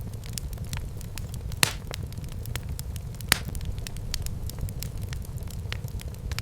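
Wood fire burning in a fireplace, crackling steadily over a low rumble of the flames, with two sharper, louder pops: one about a second and a half in and one near the middle.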